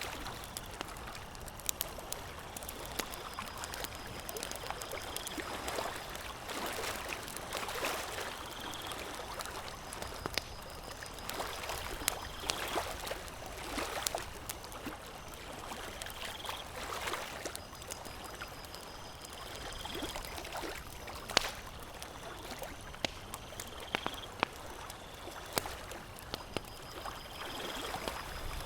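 Campfire crackling, with sharp pops scattered through it, over a steady wash of lapping, trickling water. A faint high tone repeats about every four seconds.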